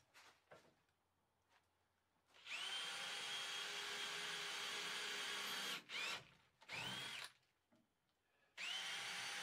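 Power drill running in several pulls of the trigger. It spins up about two and a half seconds in and runs steadily for about three seconds, gives two short bursts, pauses, then starts again near the end.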